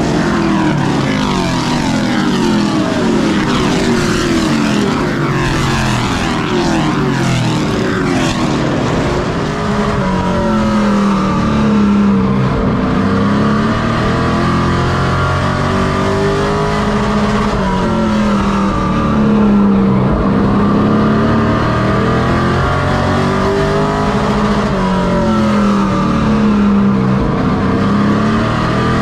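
Race truck engines running hard on a short oval. For about the first nine seconds several engines overlap with criss-crossing pitches. After that one engine's pitch rises and falls every three to four seconds as the throttle comes on down the straights and off into the turns.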